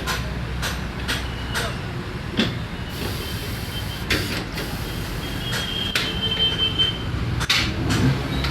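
A steady low machine hum with short, sharp knocks and hisses scattered through it, about eight in all.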